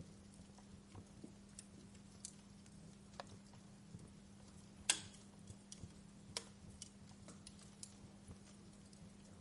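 Wood fire crackling: irregular sharp pops and snaps, one louder pop about five seconds in, over a faint steady low hum.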